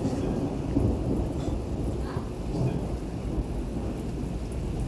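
Thunder rolling in a long, continuous low rumble over heavy, torrential rain.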